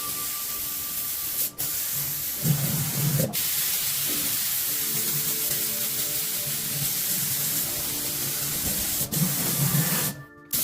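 Compressed-air spray gun hissing steadily, broken off briefly three times and stopping near the end.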